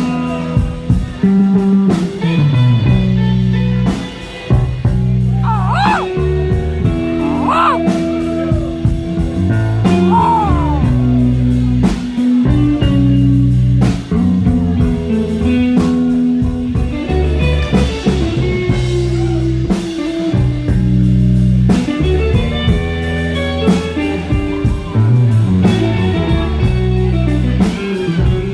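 Blues-rock band playing an instrumental passage live: guitar over bass and drum kit. From about five to eleven seconds in, the lead line bends its notes up and down.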